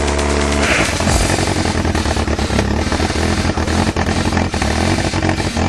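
Off-road 4x4's engine running under load as the vehicle crawls up a steep rocky slope, a rough, pulsing note. Background music fades out within the first second.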